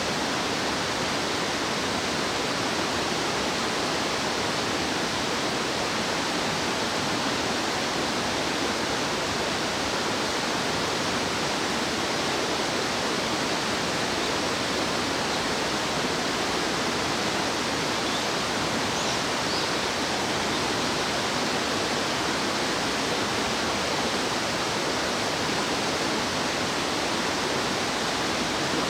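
Rushing stream water, a steady, even rush with no break.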